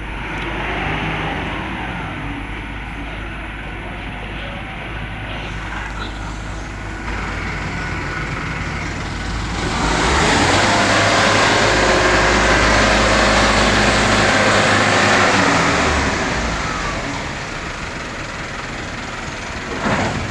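Engine of the concrete-pouring machinery running steadily. From about ten seconds in it grows markedly louder for some six seconds, then settles back. A short knock sounds near the end.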